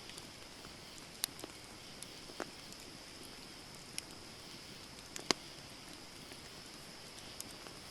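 Wood campfire burning: a steady soft hiss with sparse, sharp crackles and pops from the burning wood, the loudest pop a little over five seconds in.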